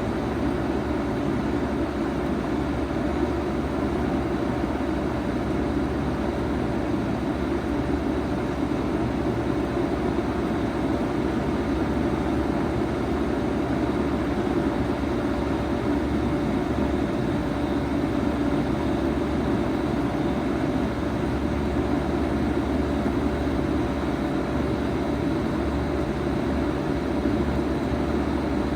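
2007 Bard 5-ton wall-hung heat pump running steadily in heat mode: the compressor hums and the fan blows air, with no change in pitch or level.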